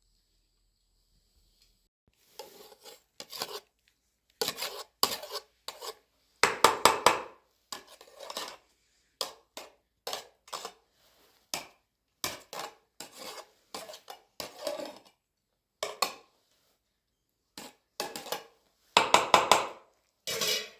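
A utensil scraping and clattering against a pot or dish in irregular strokes that start about two seconds in. The longest and loudest scrapes come near the middle and near the end.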